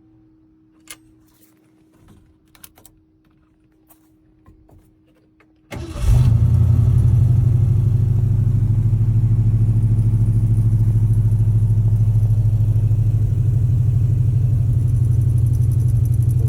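Cold start of a 1963 Ford Galaxie's 302 V8: a few faint clicks, then about six seconds in the engine fires suddenly and runs at a loud, steady idle with an even low pulse.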